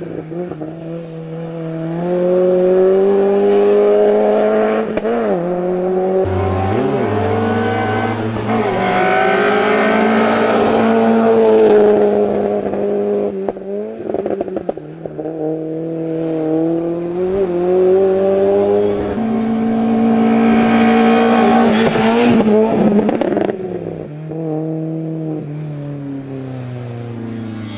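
Car engine running hard through a slalom run: its pitch climbs and holds through two long pulls, falling away sharply about halfway through and again near the end.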